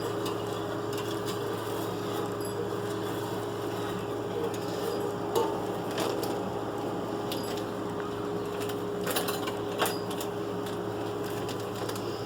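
Whisk stirring pickle brine in a pot on the stove, with a few light clicks of the whisk against the pot over a steady low hum.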